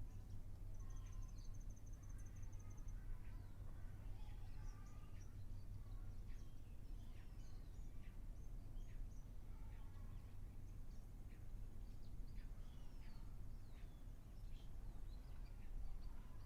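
Several wild birds calling: scattered short chirps and downward-sliding whistles throughout, with a rapid high trill for about two seconds near the start, over a steady low rumble.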